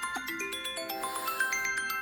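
An old iPhone ringtone playing: quick rising runs of bright struck notes that ring on, with a brief shimmering swell in the middle.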